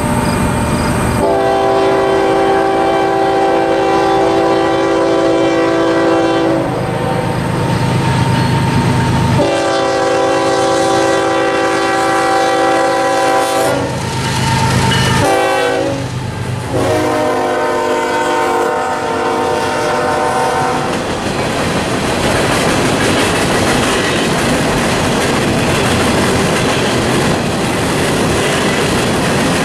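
Union Pacific diesel freight locomotive sounding its air horn in several long blasts as it approaches and passes, the horn's pitch shifting as it goes by, over the engine's low running sound. After that, loaded coal hopper cars rumble and clatter past on the rails.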